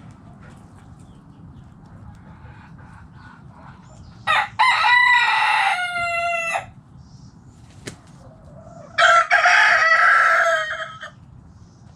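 Rooster crowing twice, each crow about two seconds long and opening with a short note before the long drawn-out call.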